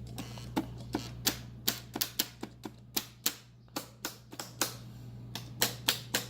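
HO-scale model train running on the layout's track: a run of sharp, irregular clicks, several a second, over a steady low electrical hum.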